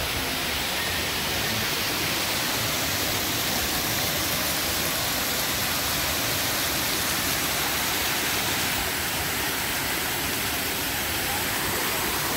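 Steady rush of water spraying and falling in a splash-park water play feature, an even hiss with no breaks.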